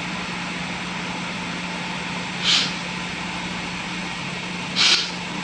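Steady background hiss with a low hum, broken twice by short, sharp hissing sounds, about two and a half and five seconds in.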